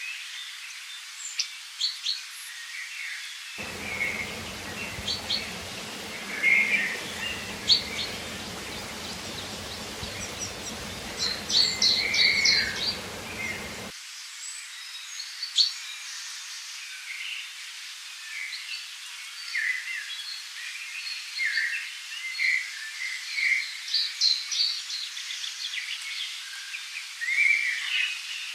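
Many small birds chirping and singing in quick short phrases over a steady hiss of flowing water. A low rumble comes in a few seconds in and stops about halfway through.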